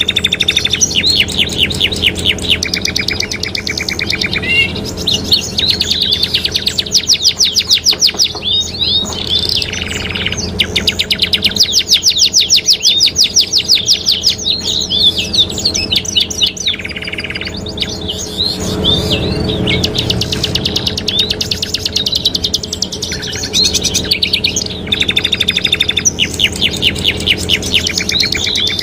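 Domestic canaries in full song: long, fast trills and rolls of rapidly repeated notes, phrase after phrase with brief breaks, over a steady low hum.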